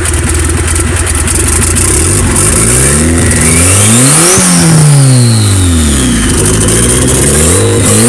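Turbocharged Honda Civic with a B18 engine swap idling, then revved twice, the engine note climbing and falling with a high whine that follows the revs. Onlookers hear something vacuum-related in it.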